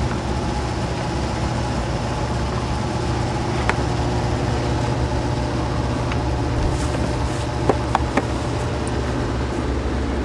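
A steady low engine hum, like a motor idling, with a few faint clicks about a third of the way in and again near the end.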